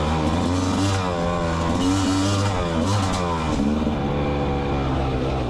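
2024 Rieju MR300 Pro's 300cc two-stroke enduro engine on the move, its pitch rising and falling several times as the throttle is opened and closed, settling lower near the end.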